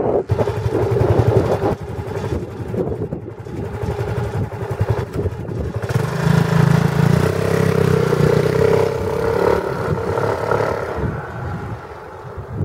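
A three-wheeled vehicle's Yamaha Majesty C scooter engine running and revving up, loudest from about six to ten seconds in, then easing off.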